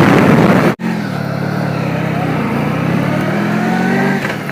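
Motorcycle engine running on the road, its pitch climbing slowly as the bike accelerates. In the first second a loud rush of wind noise on the microphone cuts off abruptly.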